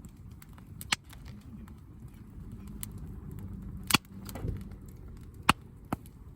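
Wood campfire crackling, with four sharp pops: one about a second in, the loudest near four seconds, and two more close together after five seconds.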